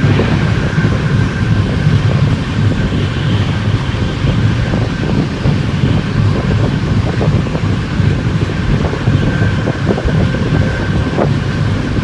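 Express passenger train running at about 106 km/h, heard from on board: a steady, loud rumble of wheels on rails with wind buffeting the microphone and a faint thin steady whine.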